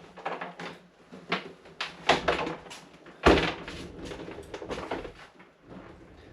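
Knocks, clunks and scraping as a portable power bank is moved and set down in a small room, with one heavy thump a little over three seconds in.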